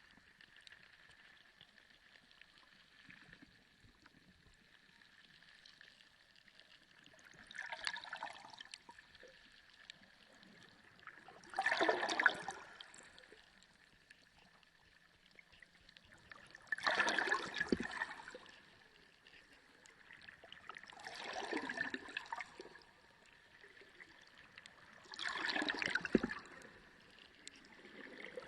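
Water surging and gurgling in five separate swells, one about every four to five seconds, each lasting around a second, over a faint steady high tone.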